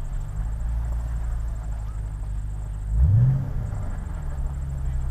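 Car engine running with a low, steady rumble, blipped once about three seconds in: a quick rev that rises in pitch and then drops back.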